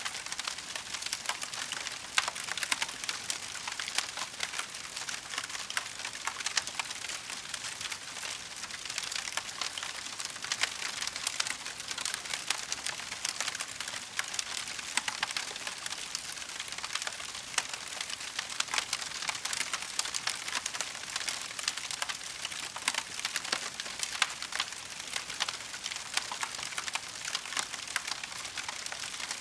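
Wood fire burning in a fireplace: a dense, steady crackle of many small clicks with scattered louder pops.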